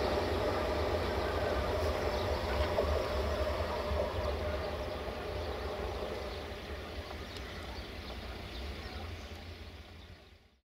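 Train running steadily with a rumble and a steady hum, growing gradually fainter and fading out to nothing just before the end.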